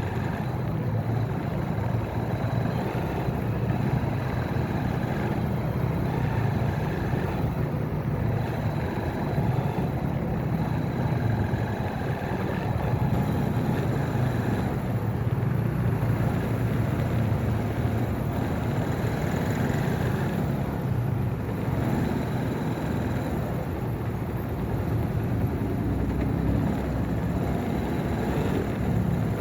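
Motorcycle engine running steadily under way, with a continuous low rumble of road and traffic noise.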